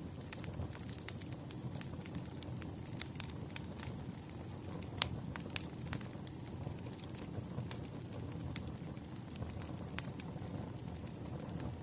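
Wood fire crackling: a steady low rush of burning logs with scattered sharp pops, the loudest about five seconds in.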